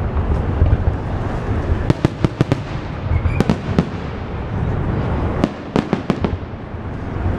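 Fireworks salute going off: sharp bangs and cracks in quick clusters, over steady low background noise.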